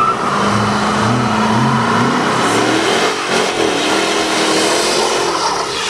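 A car engine revving hard and held at high revs, with a loud rushing hiss over it; the pitch wavers and the sound eases off slightly near the end.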